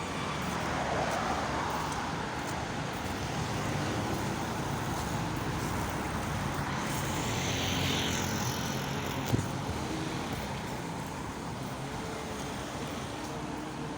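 Road traffic: steady hiss of cars going by, with two louder vehicles passing, one about a second in and one around seven to eight seconds in. A single sharp knock about nine seconds in.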